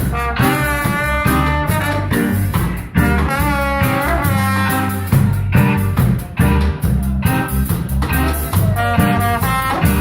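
A live instrumental band playing jazz-ska style music, with melody lines over a steady bass and drum beat.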